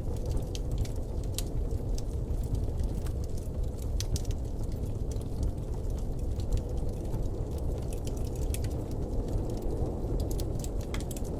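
Blizzard wind: a steady, low, rushing noise, with scattered light ticks and crackles on top.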